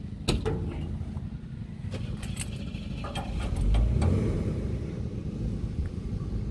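Sharp metallic clinks of wrenches on the truck's hardware, a few times, over the steady low rumble of an idling vehicle engine that swells briefly about four seconds in.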